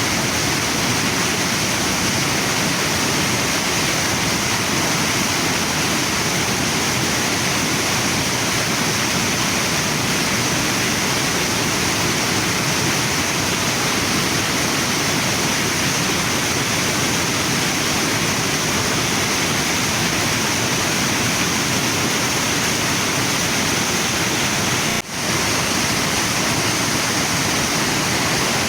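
Waterfall and river water rushing steadily, an even wash of water noise, with a momentary dropout near the end.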